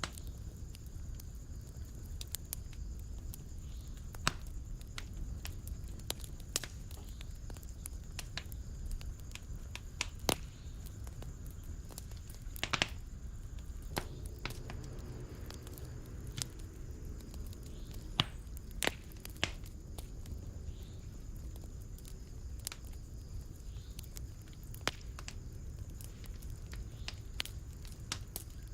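Fire burning in a fireplace: a steady low rumble of flames with irregular sharp crackles and pops, a few of them louder than the rest.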